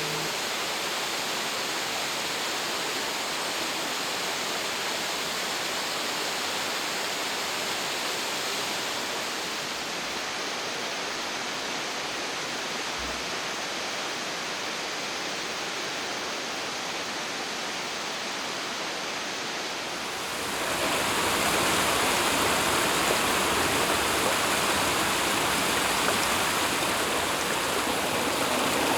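Flowing water in a steady, even rush. About two-thirds of the way through, it changes abruptly to a louder, brighter rush of water.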